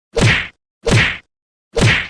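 Three short whacking hits, evenly spaced a little under a second apart, with dead silence between them.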